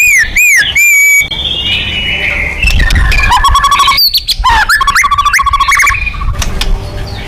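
White-rumped shama (murai batu) singing loudly in a fast, varied run of phrases: arched whistled notes at the start, then buzzy and trilled phrases, over a low background rumble.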